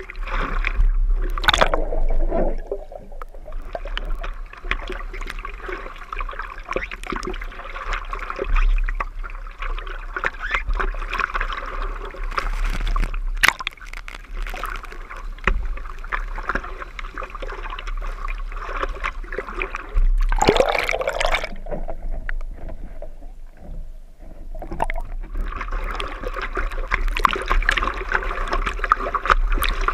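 Seawater sloshing and gurgling close to the microphone as a surfer paddles through the waves, with a few short splashes, the biggest about twenty seconds in.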